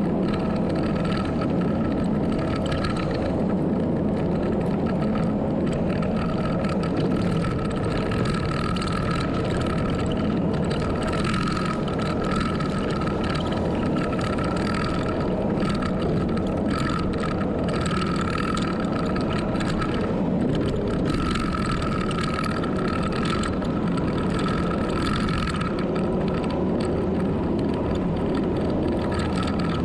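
Heavy earthmoving machine's engine running steadily under work, with a whine that comes and goes every few seconds.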